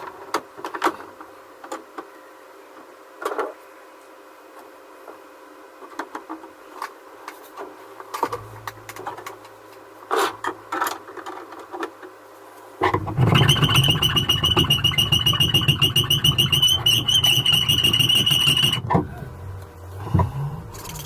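Light clicks and knocks of small parts being handled. About two-thirds of the way in, a small motor-driven tool runs for about six seconds with a steady high whine, then stops suddenly.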